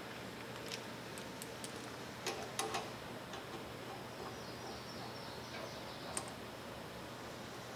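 Scattered light clicks and clinks of tools and small parts being handled, with a short cluster of louder ones a little over two seconds in and a single sharp click about six seconds in, over a steady low hum.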